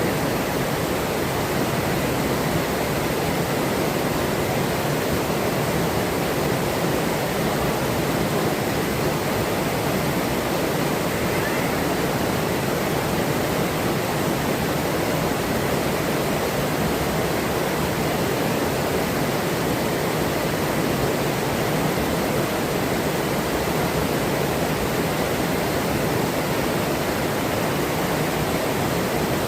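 Forest river flowing: a steady, unbroken rush of running water.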